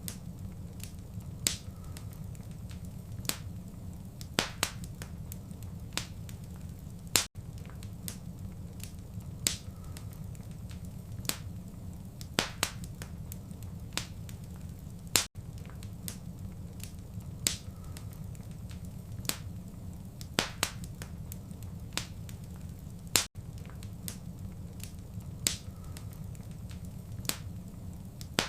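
Wood fire crackling in a fireplace: sharp pops and snaps scattered irregularly over a steady low rumble. There is a brief gap in the sound about every eight seconds.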